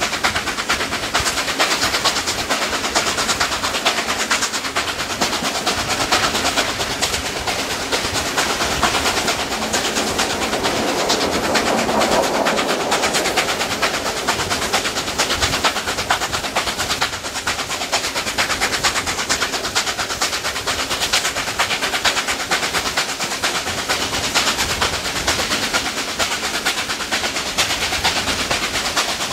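Passenger train hauled by steam locomotive 3801, heard from an open carriage window: a steady, loud clatter and rumble of wheels on rail.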